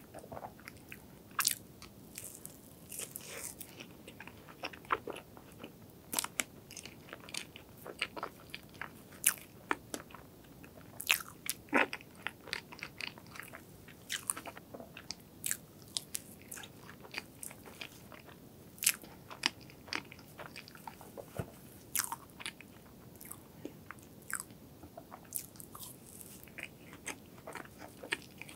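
Close-miked chewing of strawberry crepe cake and cream, heard as many short, irregular mouth clicks.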